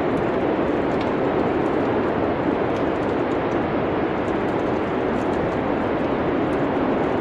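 Winter cabin ambience: a steady low rushing noise, like wind or a fire's draw, with faint, scattered crackles of a wood fire.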